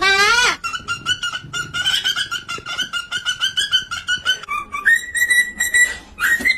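Parrot calling: a short warbling call, then rapid repeated chirping at about five a second, shifting near the end to a higher, steadier pulsed whistle.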